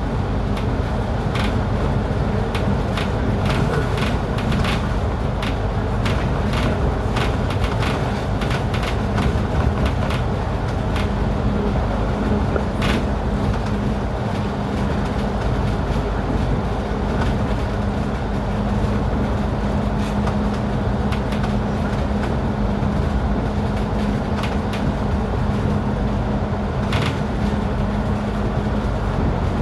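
A road vehicle driving in heavy rain: a steady rumble of engine and road noise with scattered sharp ticks, and a steady low hum joining in about eleven seconds in.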